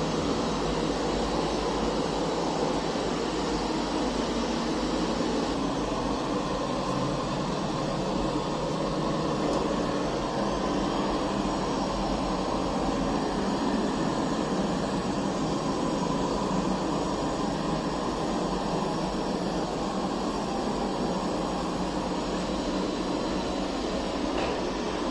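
Puppyoo R6 robot vacuum running in cleaning mode, a steady, even whir.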